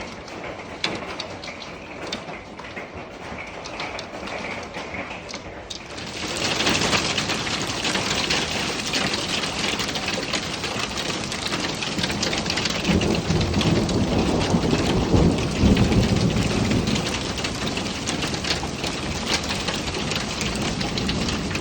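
A heavy rain and hail storm pelting down, with scattered sharp pops of hailstones at first. About six seconds in the downpour suddenly gets much louder, and a low rumble of thunder rolls through the middle.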